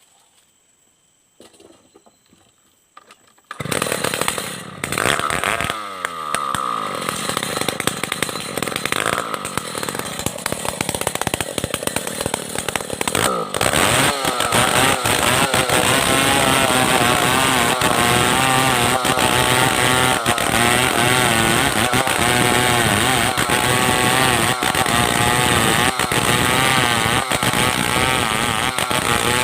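A few faint knocks, then a Stihl 070 two-stroke chainsaw starts running loudly about three and a half seconds in, its pitch falling and rising for several seconds. From about halfway through it runs steadily at high revs, ripping a plank from a log.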